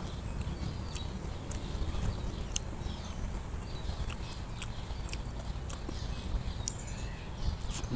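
Close-up chewing with the mouth closed: scattered small wet mouth clicks over a steady low rumble.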